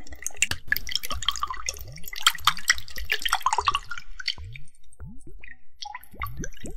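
Water dripping and splashing in a small bowl holding a little water: a busy run of drips with short rising plinks, thinning out after about four seconds.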